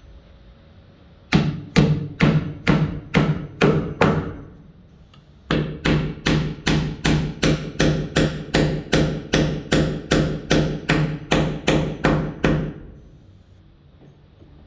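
Hammer driving a nail into wood, struck steadily at between two and three blows a second, each blow ringing briefly. A run of about eight blows, a pause of over a second, then a longer run of about twenty.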